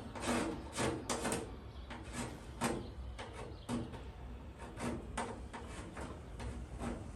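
Irregular short scraping and clicking strokes, a few a second, of hand work with a tool.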